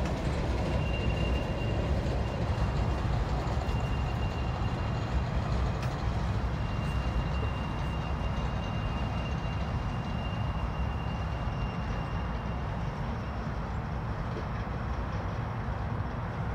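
Freight train of boxcars rolling past: a steady low rumble of wheels on the rails. A faint thin high tone runs through most of it and fades out near the end.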